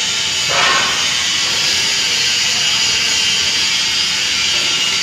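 Industrial stress-relieving furnace firing, with a steady loud hiss from its burners and a brief louder rush about half a second in.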